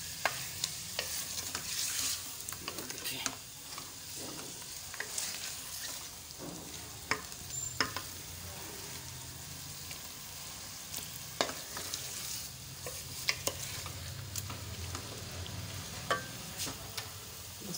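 Chicken pieces and masala sizzling in oil in a metal pot, stirred with a wooden spoon that scrapes and knocks against the pot from time to time. This is the frying (bhuna) of the spices with the chicken and tomatoes, before water is added.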